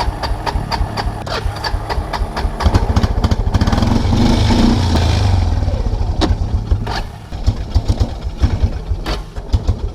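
Kawasaki Prairie 300 ATV's single-cylinder four-stroke engine given throttle: it picks up and revs for a few seconds, then drops back to an uneven, stumbling run with irregular firing. The engine is running rich, which the owner puts down to a carburetor float stuck open.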